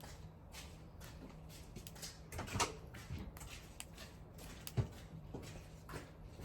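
Wood fire crackling: irregular small snaps and ticks, with two louder pops, one about two and a half seconds in and one near five seconds.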